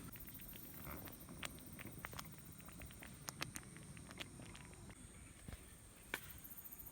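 Scattered light clicks and taps, a few sharper ones, over a steady high insect drone from the surrounding countryside.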